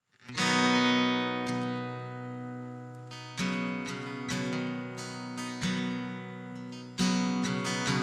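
Acoustic guitar playing the opening of a country song: a few strummed chords, each left to ring and fade before the next.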